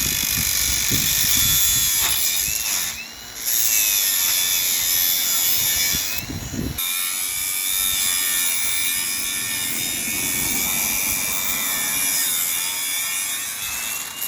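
A power tool running and cutting, with a high motor whine whose pitch wavers under load. It eases off briefly twice, about three seconds in and again a few seconds later.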